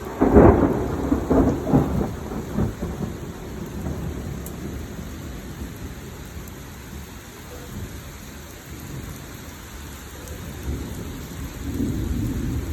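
A thunderclap about half a second in, crackling and rumbling as it dies away over a few seconds, over steady rain. Another low rumble of thunder builds near the end.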